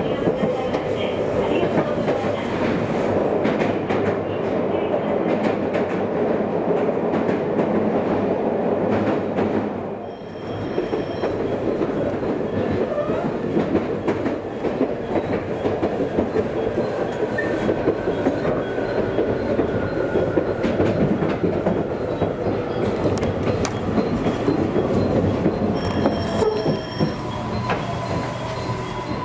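Electric train running on the rails, heard from inside the passenger car: a steady wheel-and-rail rumble with many sharp clicks from the wheels. It dips briefly about ten seconds in and grows quieter near the end.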